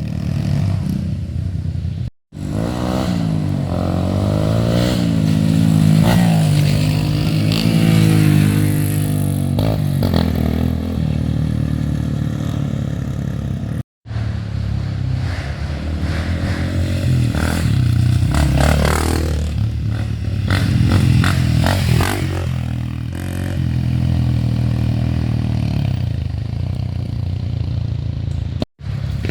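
Off-road trail motorcycle engines revving up and down hard as they ride through mud, the pitch rising and falling with the throttle. The sound drops out briefly three times.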